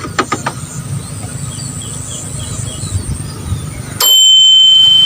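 A few sharp clicks, then about four seconds in a loud, steady high-pitched beep starts abruptly and holds.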